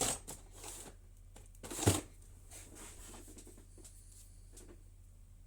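Tools and small parts being handled and shifted about on a workbench: a knock at the start and a louder one about two seconds in, with light clicks and rustling between, quieter after that. A steady low hum runs underneath.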